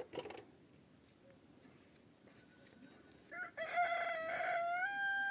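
A rooster crowing: one long call that begins about three seconds in and holds steady, rising a little near the end. A faint knock comes at the very start.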